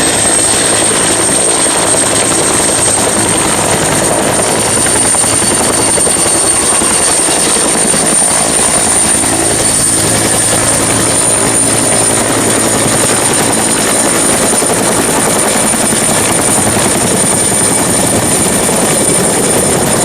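Helicopter sound: steady, loud engine and rotor noise with a high turbine whine held at one pitch.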